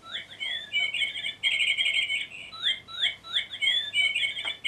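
Bird chirping: a phrase of quick sweeping whistled notes that breaks into a fast trill, sung twice over.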